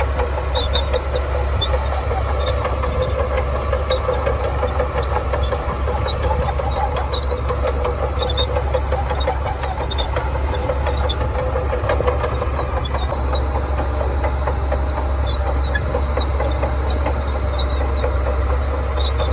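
Shantui bulldozer's diesel engine running steadily under work, a continuous deep rumble.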